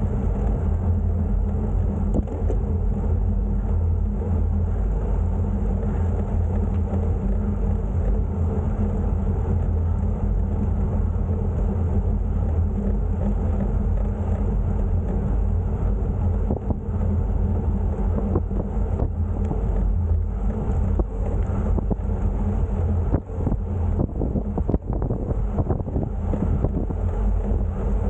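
Steady low rumble while cycling uphill, as of wind on the microphone and road noise, with no clear events.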